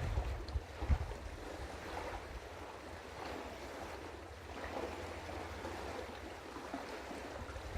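Wind buffeting an outdoor microphone in low rumbling gusts, the strongest about a second in, over a steady rush of water washing on the river shore.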